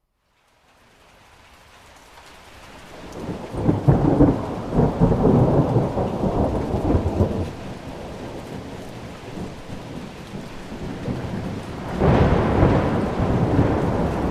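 Rain fading in after a brief silence, with a long roll of thunder starting about three seconds in and a second roll near the end.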